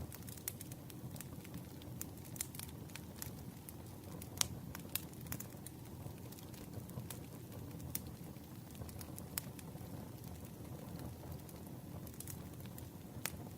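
Campfire crackling: a steady low rumble with irregular sharp pops and snaps, one louder pop about four seconds in.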